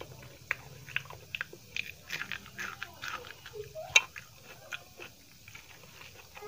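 A person chewing a mouthful of dal and rice with wet, irregular mouth clicks, while fingers mix rice and dal on a steel plate. A sharp click about four seconds in is the loudest sound.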